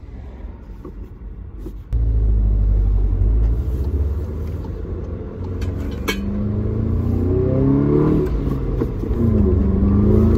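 Volkswagen Golf GTI MK7.5's turbocharged 2.0-litre four-cylinder engine pulling hard under full throttle, heard from inside the cabin, on a Neuspeed power module that raises boost. The engine gets suddenly louder about two seconds in, its note climbs in pitch, drops with an upshift near eight seconds, then climbs again.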